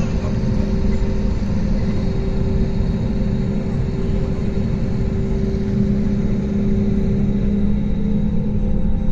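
Jet airliner's engines and airflow heard from inside the passenger cabin during take-off: a loud, steady rumble with a low hum that grows stronger about halfway through.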